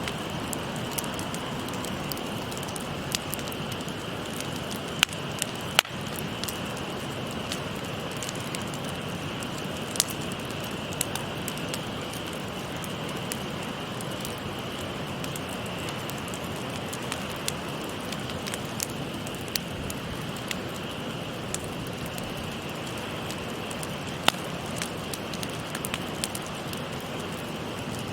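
Wood fire crackling, with scattered sharp pops every second or so, a few louder ones about five and six seconds in, over the steady babble of a shallow stream.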